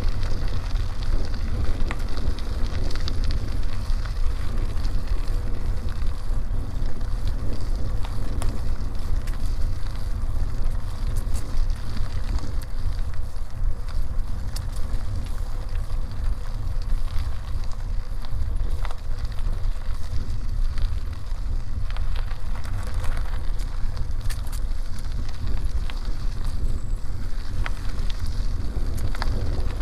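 Wind rumbling on the microphone of a moving bicycle, with a steady crackle of tyres on the road and scattered small clicks.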